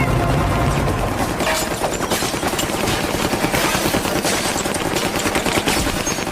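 A dense, continuous run of rapid sharp cracks and bangs, like a burst of gunfire.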